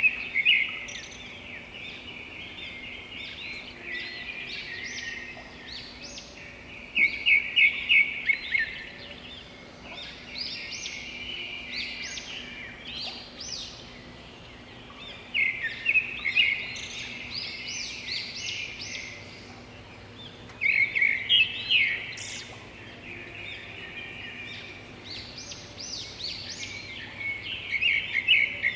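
A songbird singing: loud, quick runs of repeated high notes that break into softer twittering, repeated about every six to eight seconds.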